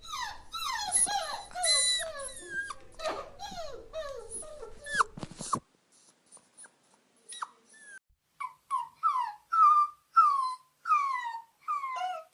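Dogs whining and whimpering in high, falling cries. Partway through there is an abrupt cut, and then comes a run of short, falling whines, two or three a second.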